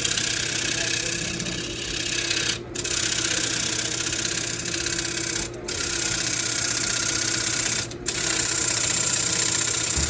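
Wood lathe running with a gouge cutting the spinning spalted sweetgum blank: a steady cutting hiss over the motor's hum, dropping out briefly three times as the tool comes off the wood.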